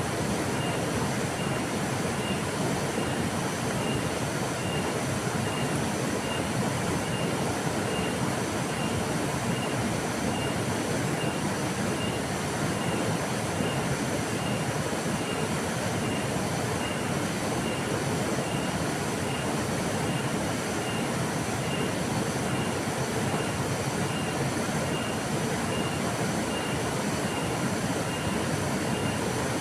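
River water flowing, a steady even rushing. A faint high chirp repeats a little more than once a second throughout.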